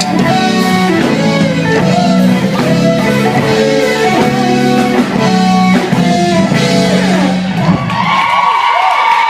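Live soul band playing, guitar out front over bass and drums. About eight seconds in the band drops out and a single high held note rings on.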